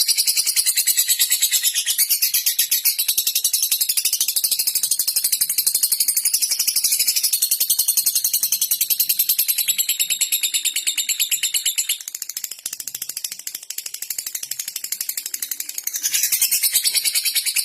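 Lovebird chattering in a fast, high-pitched, typewriter-like stream of clicks: the 'ngetik' call. It goes softer for a few seconds past the middle, then picks up again.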